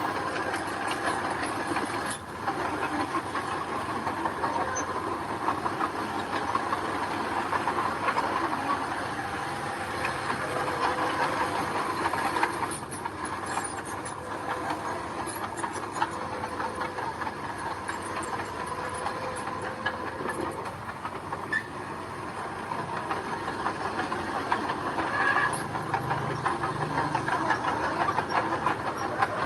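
Crawler bulldozer working: diesel engine running and steel tracks clattering and squealing steadily.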